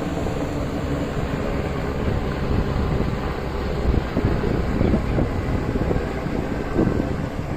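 Steady low rumble of a passenger boat under way, its engine running with wind buffeting the microphone.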